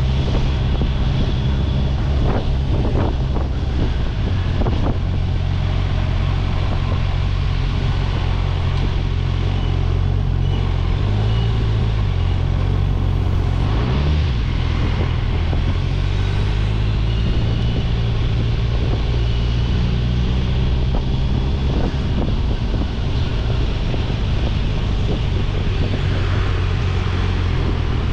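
Kawasaki Ninja 1000SX's inline-four engine running steadily while riding, with wind noise on the microphone. The engine note shifts briefly about halfway through.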